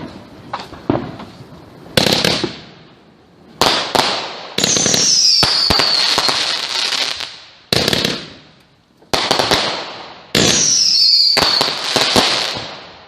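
Consumer firework cake firing a string of shots: sharp bangs a second or two apart, and two longer stretches of loud rushing crackle, each with a high whistle falling in pitch.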